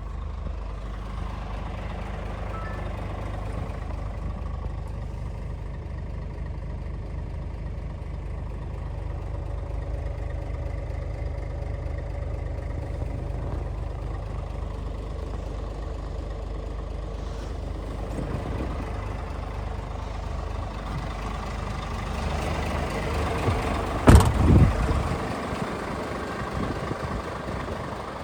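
Scania R450 truck's 13-litre inline-six diesel running steadily. A single sharp, loud knock comes near the end, with a brief low rumble after it.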